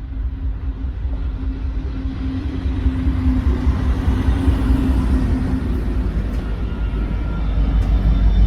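Norfolk Southern freight train rumbling past, with a steady low hum and growing louder toward the end.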